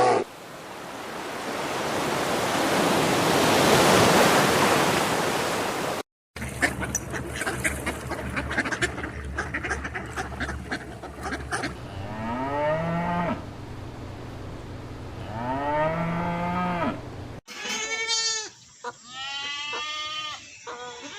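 A rushing noise swells and fades. After a cut, cattle moo twice, drawn out and rising then falling, over a clatter of knocks. After another cut, waterfowl call over and over in quick, short honks.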